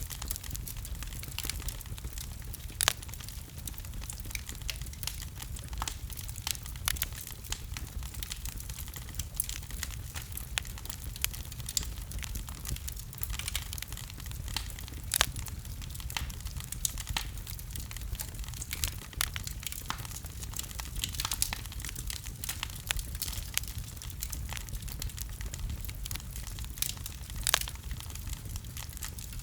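Wood fire burning in a fireplace: constant crackling and popping, with a few sharper pops standing out, over a steady low rumble of the flames.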